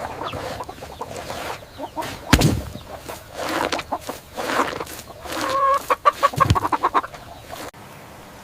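Chickens clucking in short, irregular calls, breaking into a quick run of repeated clucks about five and a half seconds in, with a loud thump about two seconds in.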